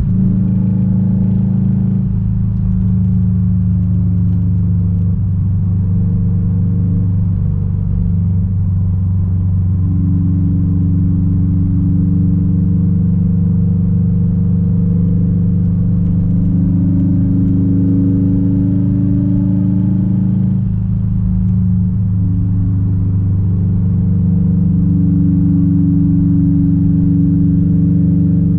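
Straight-piped 2006 Subaru WRX STI's turbocharged flat-four running under way, a loud, steady low exhaust drone whose pitch shifts briefly a few times.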